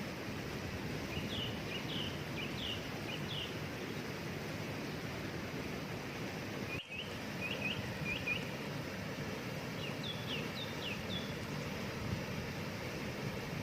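Steady rush of a waterfall, with a small bird giving three bouts of short, high chirps over it. The sound drops out briefly about halfway through.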